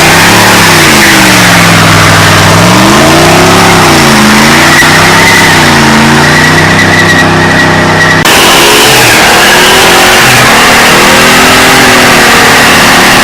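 Loud engine revving hard, its pitch climbing and falling about five times in quick succession. About eight seconds in the sound changes abruptly to engine noise with smaller, gentler rises and falls.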